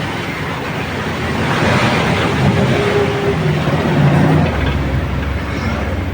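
A motor vehicle's engine and road noise, swelling to its loudest about four seconds in and then easing off, as when a vehicle drives past.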